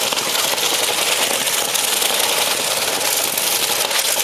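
Engine of a modified free-class pulling tractor running steadily and loudly, with a fast, even rattle of firing strokes.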